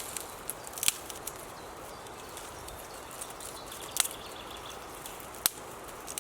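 Quiet woodland ambience with a steady faint hiss, broken by three sharp snaps, about a second in, near four seconds and near five and a half seconds, with a few lighter ticks between them.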